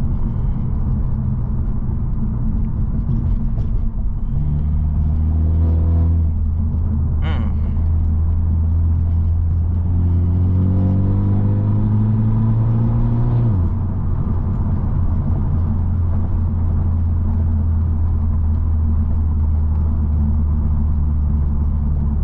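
Straight-piped BMW F30 engine and exhaust droning steadily while driving. Its note climbs under throttle briefly about four seconds in, then again for a few seconds from about ten seconds, and drops suddenly at about thirteen and a half seconds. A single sharp click comes around seven seconds.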